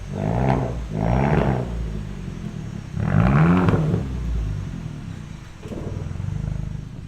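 2017 Hyundai Elantra straight-piped exhaust (resonator and muffler deleted, only the catalytic converters left) being revved: three quick rising-and-falling revs in the first four seconds and a smaller blip near the end, dropping back to a low idle drone in between.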